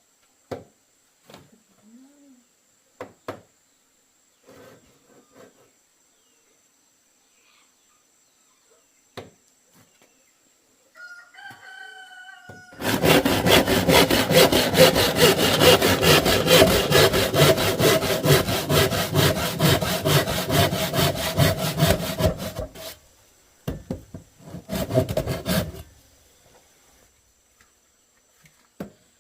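Saw cutting through bamboo: a run of fast rasping strokes for about ten seconds, then a shorter second burst of strokes after a brief pause.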